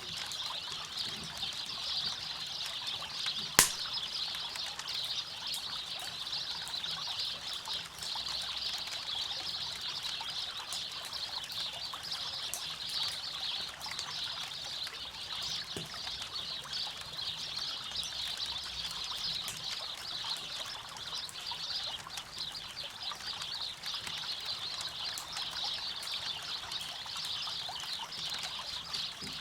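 A river runs steadily while a campfire crackles with scattered small snaps. One sharp, loud pop comes about three and a half seconds in.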